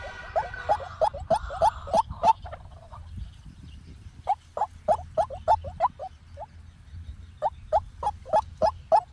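White-breasted waterhen calling: runs of short, sharp, repeated notes, about three a second, broken by two brief pauses.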